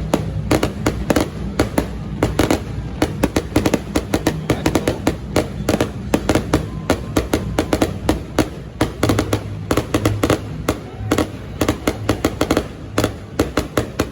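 Fireworks going off in rapid succession: a dense, unbroken run of loud bangs and crackles, several a second.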